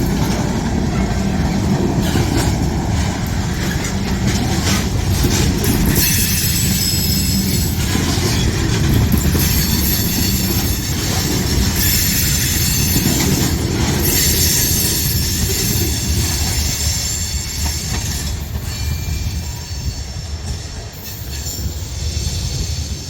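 Freight train cars rolling past, with a steady rumble of steel wheels on the rails. High-pitched wheel squeal joins about six seconds in and lasts about ten seconds. The rumble eases near the end.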